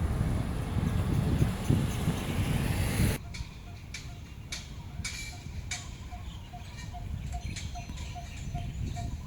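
Wind buffeting the microphone, which stops suddenly about three seconds in. After that it is quieter, with a faint short note repeating about three times a second and a few scattered clicks.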